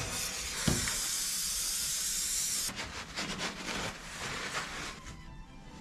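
Water being drawn out of a hull fitting: a steady hiss with a single knock about a second in. About three seconds in it breaks into irregular sputtering as the last of the water comes out, then fades.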